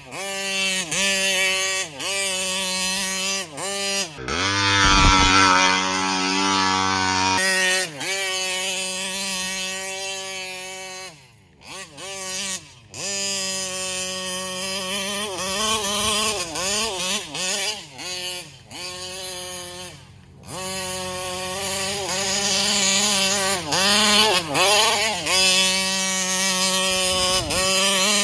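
Taylor 35cc reed-valve two-stroke engine of a Kraken Vesla RC car running hard, its revs repeatedly dropping and climbing again as the throttle is let off and reapplied. There is a louder, harsher stretch a few seconds in and a few short lulls.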